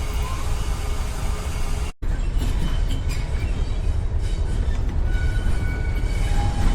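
A railway locomotive running with a steady low rumble; the sound cuts out for an instant about two seconds in.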